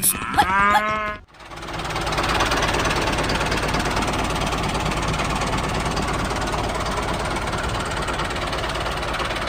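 A mini tractor's engine sound, running steadily with a fast knocking rhythm after it starts up about a second in. A short rising tone comes just before.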